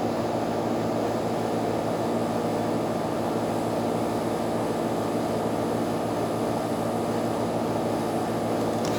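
Steady drone of a motor running without let-up, with a constant hum under an even rushing noise.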